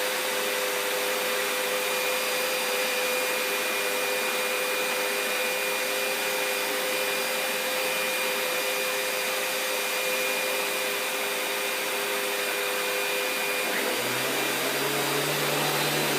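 Vacuum cleaner running steadily, a constant whirring hiss with a steady whine; about fourteen seconds in its tone changes and a lower hum comes in.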